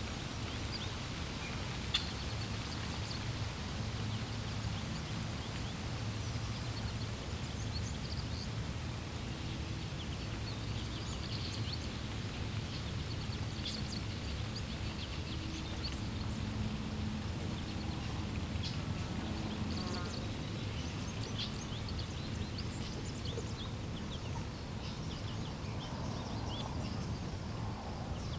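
Birds chirping and calling in short scattered notes over a steady low rush of flowing water, with one sharp click about two seconds in.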